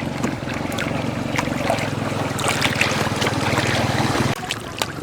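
A small motor, most likely a boat engine, running steadily with a low pulsing hum, then cutting off abruptly about four seconds in, with water and handling clicks around it.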